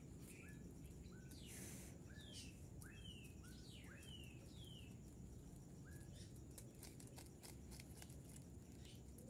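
Faint bird chirps over near silence: about ten short calls, some rising and some falling, in the first six seconds or so, then only faint scattered clicks.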